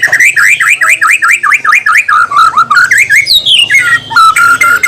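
White-rumped shama (murai batu) singing a loud, fast run of about a dozen short sweeping notes, roughly five a second. A falling glide follows, then a steady whistled note repeated in quick pulses.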